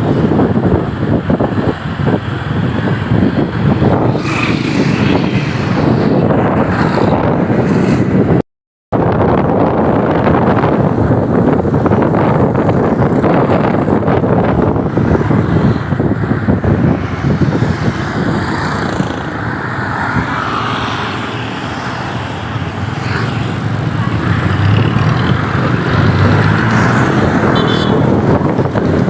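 Motorcycle riding noise: wind rushing over the microphone, mixed with engine and road and traffic noise. It cuts out briefly about eight and a half seconds in.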